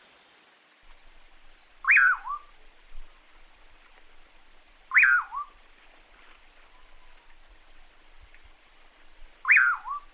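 A bird calling three times, a short whistled note that rises then falls, repeated about every three seconds over a faint steady hiss.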